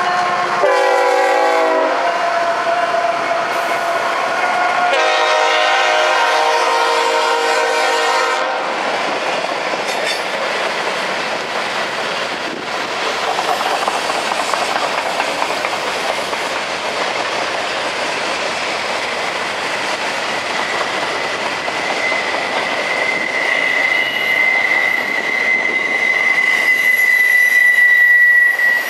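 Diesel locomotive horn sounding a short blast about a second in and a longer blast around five seconds in, then a train rolling past with steady wheel-on-rail noise. A high, steady wheel squeal grows louder over the last several seconds.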